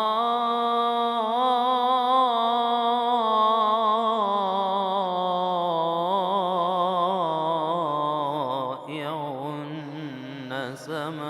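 Male reciter chanting an Arabic ibtihal unaccompanied in the melismatic Egyptian style: one long drawn-out vowel with wavering, ornamented turns of pitch, moving into a new word near the end.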